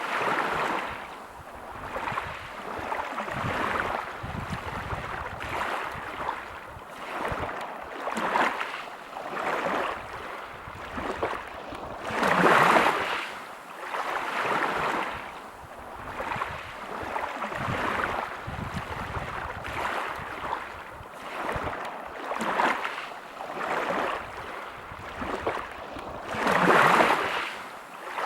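Gentle sea waves breaking over a pebble beach, washing in and falling back every couple of seconds, with two bigger waves about twelve seconds in and near the end.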